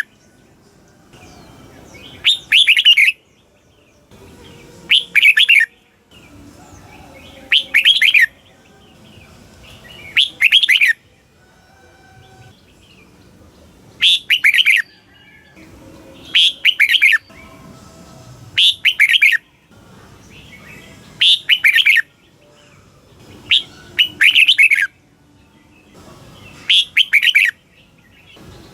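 Red-whiskered bulbul singing: short, loud warbled phrases repeated about every two and a half seconds, about ten in all.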